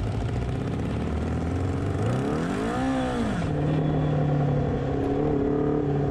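Motorcycle engine running under way with wind rush. About two seconds in it revs up and falls back over about a second and a half, then runs steadily at a lower pitch as the wind rush eases.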